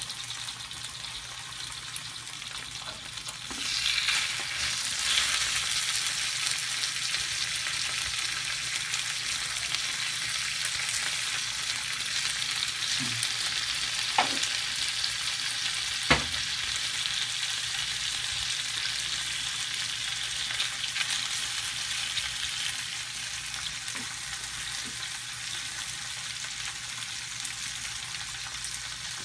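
Sauced chicken thighs sizzling in a double-sided nonstick grill pan. The sizzle swells about four seconds in and holds steady, with a few sharp clicks against the pan.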